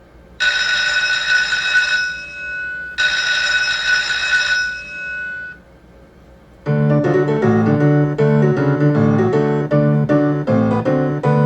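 Lightning Link slot machine audio: two bright ringing chime effects, each lasting about a second and a half, then, after a short pause, a continuous piano-like game tune with chords starting about two-thirds of the way in.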